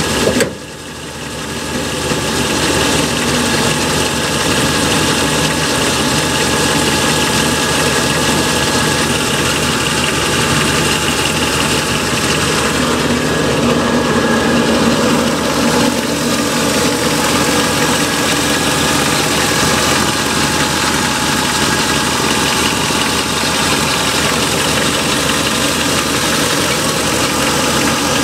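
A mild 283 small-block V8 in a 1962 Chevrolet Impala idling steadily, heard first at the exhaust pipes under the car and then in the engine bay. The sound breaks and dips briefly about half a second in.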